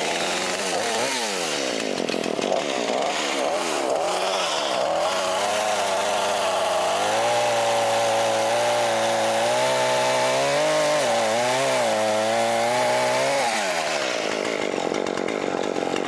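Chainsaw cutting down a stump, its engine revving up and down, then held at high revs through the cut before dropping back to idle near the end.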